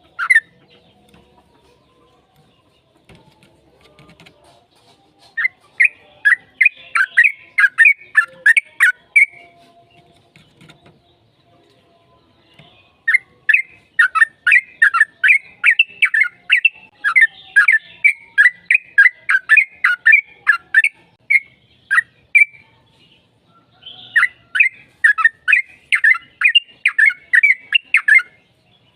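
Yellow-vented bulbul (trucukan) singing its long, fast chattering song in three runs of quick repeated notes, about four a second, with short pauses between.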